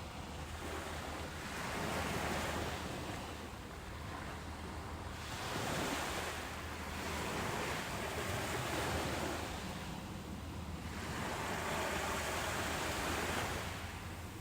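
Ocean surf breaking on a beach: a rushing wash of waves that swells and falls in about three surges, over a steady low rumble.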